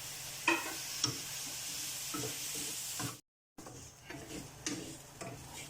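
Onions, raisins and boiled chana dal sizzling in a hot pan without oil, with a spoon scraping and tapping against the pan as they are stirred. The sound cuts out for a moment about three seconds in, then carries on more quietly with occasional taps.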